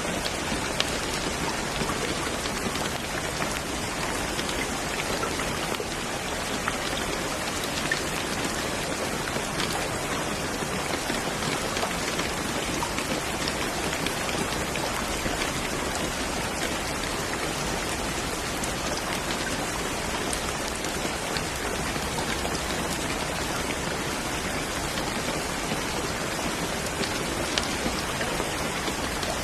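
Steady, even rain falling, with scattered droplet ticks among the hiss.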